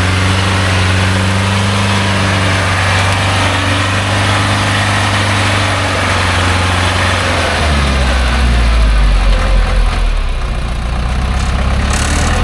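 Logging truck's engine running steadily at idle, then dropping to a lower, louder note about eight seconds in.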